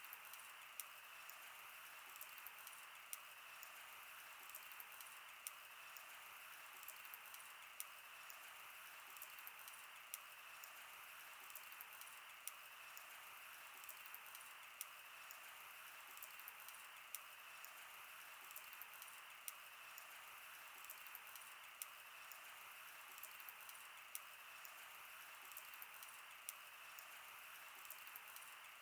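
Wood campfire burning, with a faint steady hiss and frequent small, irregular crackles and pops from the burning wood.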